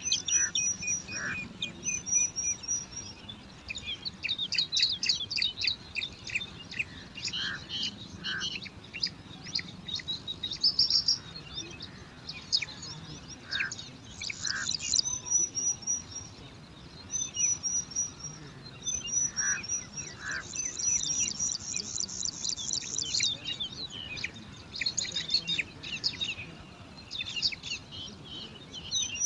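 Bar-winged prinia chicks begging at the nest: dense, rapid, high-pitched chirping and trilling in runs of a few seconds, with short gaps between.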